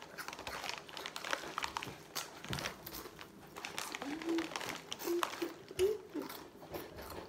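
Chip bag crinkling and rustling in quick, irregular crackles, with a few brief voice sounds about four to six seconds in.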